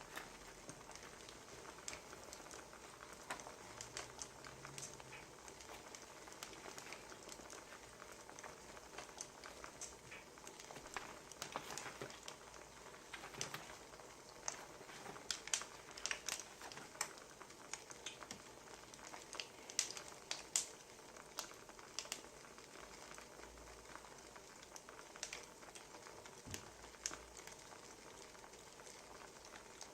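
Wood fire crackling: irregular sharp pops and snaps over a soft steady hiss, a few louder pops in the middle stretch.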